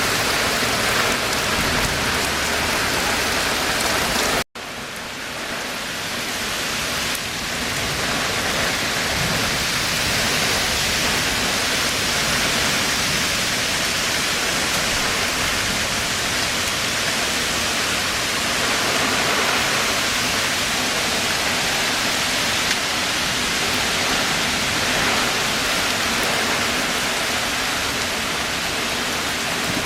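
Heavy rain pouring down in a steady downpour. About four and a half seconds in the sound cuts out for an instant, then the rain comes back slightly quieter and builds up again.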